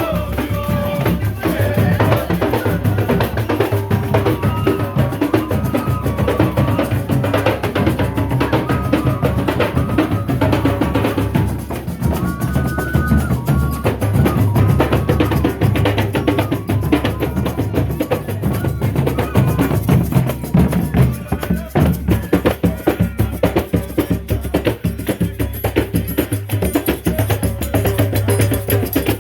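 Folia de Reis group playing music with a steady drum and percussion beat over a bass line.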